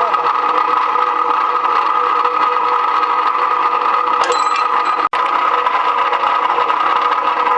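Electric rebar cutting or bending machine running steadily, its motor and gearing giving a constant hum and whine, with a short metallic click about four seconds in. The sound drops out for an instant about five seconds in.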